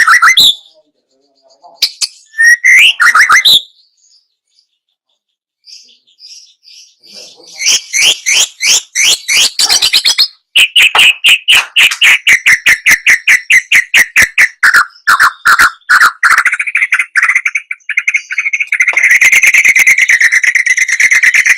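White-rumped shama (murai batu) singing loudly: short whistled phrases, then after a pause a long run of fast repeated chattering notes, ending in a harsh, buzzing trill.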